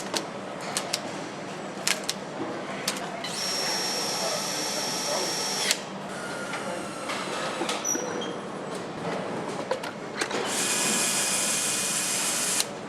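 A power tool runs in two bursts of about two seconds each, the first with a high whine; each burst stops abruptly. Sharp clicks and knocks of assembly work fall between the bursts.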